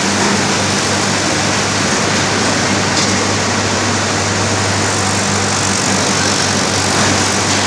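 Tractor diesel engine running steadily at a constant speed: an unchanging low drone over a wash of yard noise.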